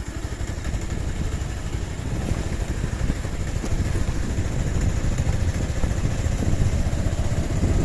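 Motorcycle on the move: a steady low rumble of engine and road noise that slowly grows louder.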